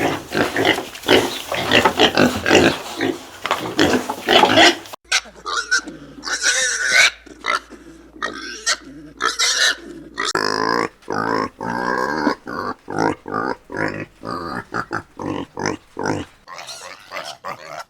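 Pigs grunting and oinking in short calls in quick succession, some calls higher and sharper, in a few spliced-together clips with changes about five and ten seconds in.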